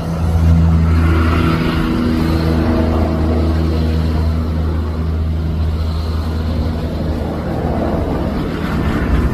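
A motor vehicle's engine running steadily with a low, even hum, dying away about seven seconds in.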